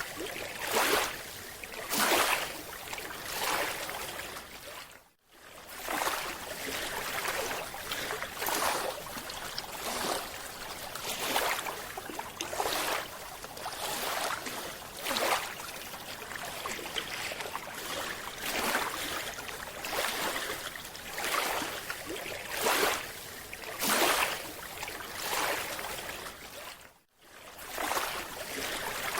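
Water sloshing and splashing in repeated surges, one about every second. It cuts out briefly twice.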